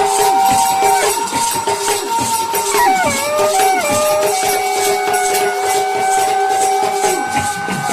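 Bundeli folk devotional music: a sustained melody line with short pitch bends over a fast, steady rattle of jingling hand percussion.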